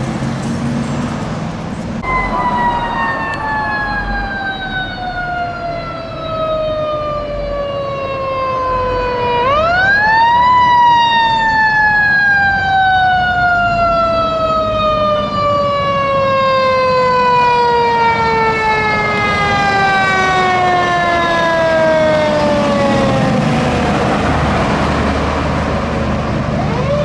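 Fire truck siren wailing. It sounds about two seconds in and slides slowly down in pitch, winds back up quickly about ten seconds in, then falls slowly again for over ten seconds before starting to climb once more near the end. Traffic noise runs underneath.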